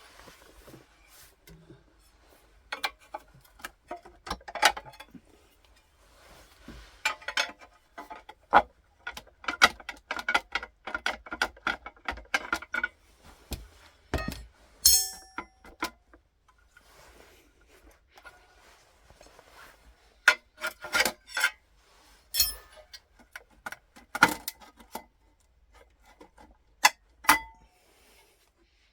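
Hand tools and metal clutch parts clicking and clinking in irregular clusters as the pressure plate and clutch disc come off an engine, with a few sharp metallic clinks that ring briefly.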